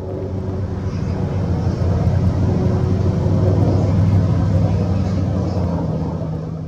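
Coulson UH-60 Black Hawk helicopter descending overhead, its rotors and turbine engines making a loud, steady, low-pitched drone that swells slightly toward the middle.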